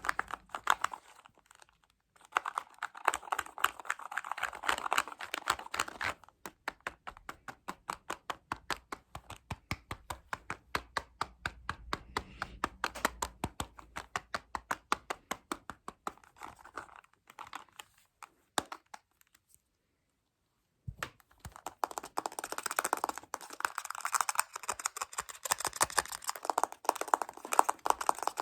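Fast ASMR tapping and scratching close to the microphone: flurries of quick, sharp taps, a steady run of evenly spaced taps at about five a second in the middle, a brief pause, then a dense flurry of tapping and scratching near the end.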